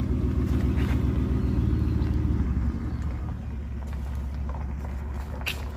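Ford F-150's 5.0-litre Coyote V8 exhaust rumbling as the truck pulls away. It is loud for the first two and a half seconds, then drops off and fades as the truck moves away.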